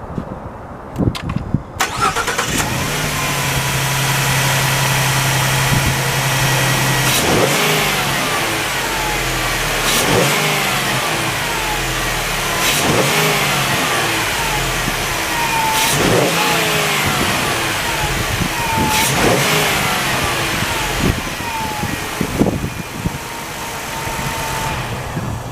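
2019 Ford Transit T350 van engine cranking briefly and catching about two seconds in, then idling steadily. From about a third of the way in it is revved six times at even intervals, each rev rising and falling back to idle. The sound cuts off just at the end.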